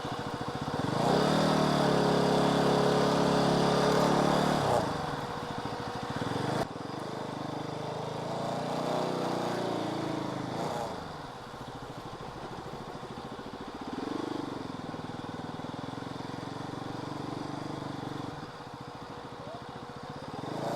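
Motor vehicle engine running, revving up and holding higher about a second in, then dropping back; the sound changes abruptly near seven seconds and the engine runs on.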